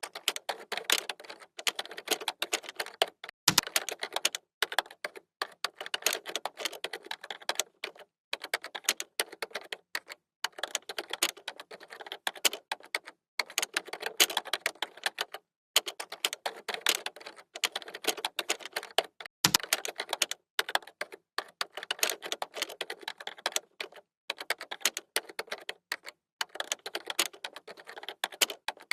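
Typing on a computer keyboard: rapid runs of key clicks in bursts of a second or two with short pauses between, and a couple of heavier key thuds, like a space bar or enter key, about three seconds in and near the middle.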